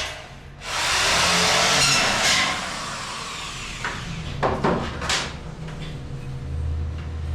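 Power tool working the steel ceiling framing, running loud with a short break just after the start, then stopping about two and a half seconds in. A few sharp knocks follow, and a low hum comes in near the end.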